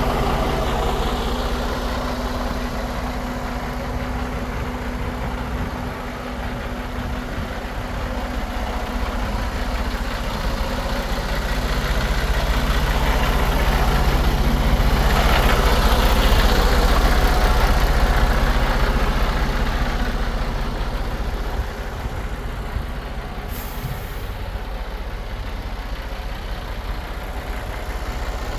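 Mercedes-Benz Arocs 3342 truck's six-cylinder diesel engine idling steadily. It grows louder for several seconds around the middle, and a brief sharp hiss of air comes near the end.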